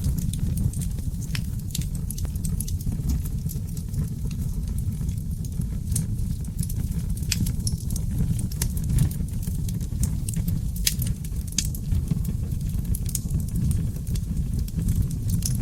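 Wood fire of oak logs burning in a fireplace: a steady low rumble of flames with frequent irregular crackles and sharp pops.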